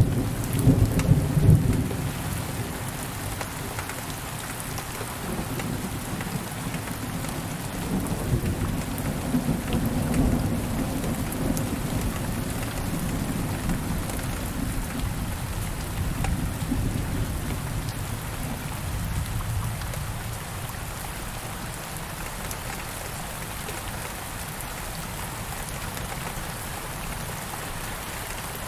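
Steady rain falling, with thunder rumbling: a loud roll in the first couple of seconds, further rumbles through the middle, then dying away to rain alone near the end.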